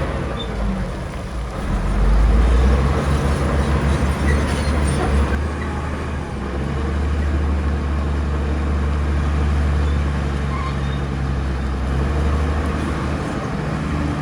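Heavy diesel engines of earthmoving machinery running with a deep rumble that grows louder about two seconds in, as if taking load, then holds with small swells.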